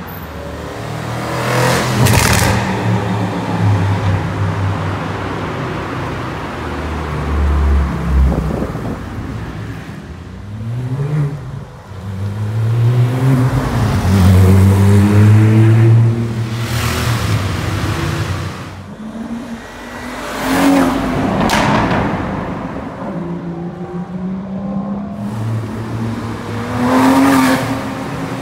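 Several sports cars accelerating away one after another, among them Porsche 911 flat-sixes. Each engine note climbs in pitch as it pulls through the gears, with a handful of loud passes.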